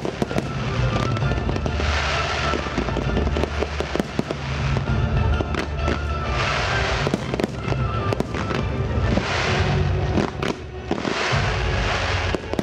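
Fireworks display: many sharp bangs and crackles from bursting shells, with hissing swells every few seconds, set to a music soundtrack.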